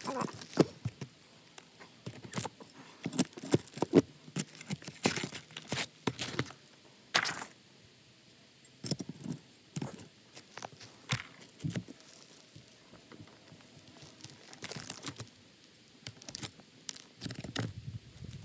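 Roof work: irregular knocks, taps and scraping rustles as roofing pieces are handled.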